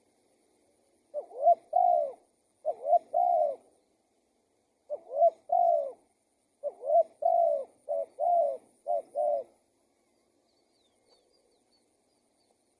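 Spotted dove cooing: four phrases of low, arched coos, each phrase two or three notes long, over the first nine or so seconds. Faint small-bird chirps follow near the end.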